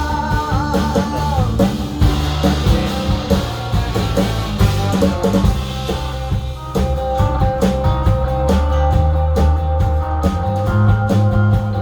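Rock band playing an instrumental passage between verses: electric guitar over bass and a drum kit, with bending notes at the start and held notes from about seven seconds in.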